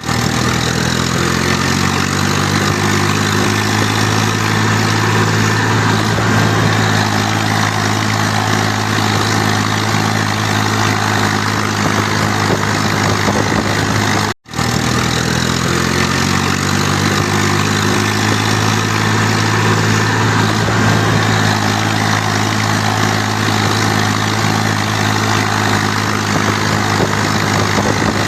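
Eicher 380 diesel tractor engine running steadily at idle, its pitch settling a little lower in the first seconds. The sound drops out abruptly for a moment about halfway through, then the engine runs on as before.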